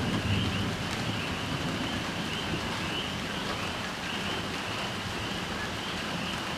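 Steady rain falling, with a faint high-pitched chirping repeating in the background.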